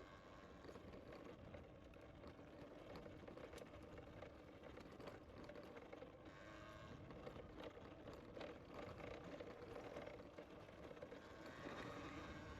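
Faint, steady rolling noise of a bicycle ride, from tyres and air moving past the microphone, with scattered light ticks and rattles.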